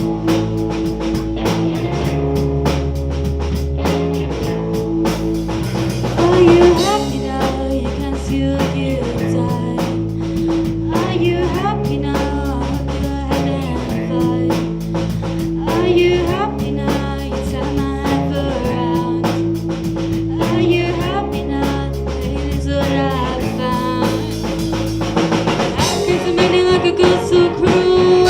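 A live band playing a song with drum kit and guitar at a steady beat, a voice singing phrases that come and go over it.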